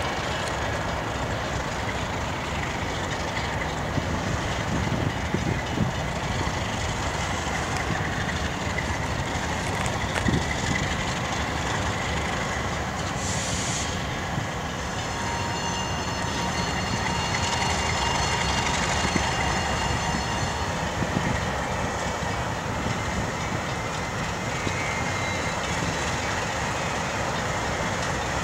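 Freight train rolling on the rails: a steady rumble with a few clanks. A high squeal of wheels on the rail sounds for about five seconds around the middle.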